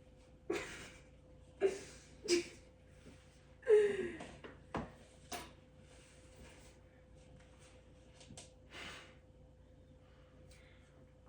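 A few short gasps and breathy exhales from people, the loudest about four seconds in with a falling voice, followed by a couple of light taps.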